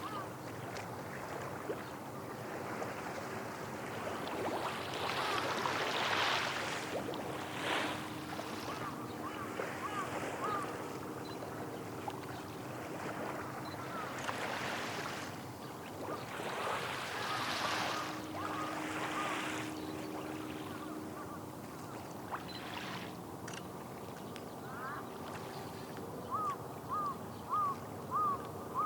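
Small waves washing on the shore, swelling twice, under a faint steady low hum. A bird calls in runs of short, repeated notes, loudest in a run of four or five near the end.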